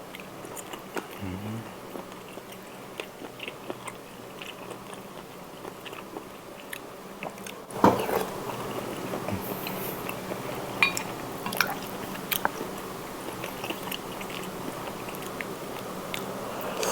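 Close-miked chewing and biting while eating spicy seafood instant noodle soup: a run of small wet clicks and ticks. About eight seconds in there is a sudden louder sound, after which the background hiss is louder.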